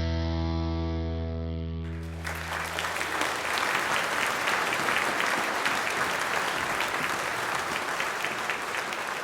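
A held electric guitar and bass chord rings out and fades over the first two seconds, then audience applause and clapping fills the rest.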